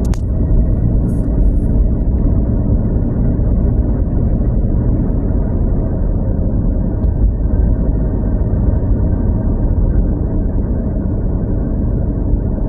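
Steady low rumble of road and engine noise from a vehicle being driven.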